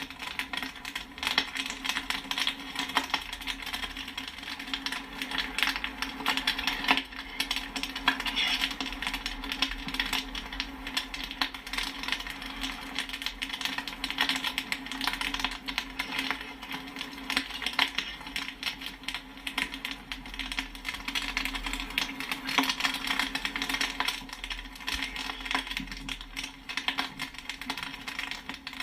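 Popcorn popping in a dense, continuous run of sharp pops and pings with no let-up, over a steady low hum.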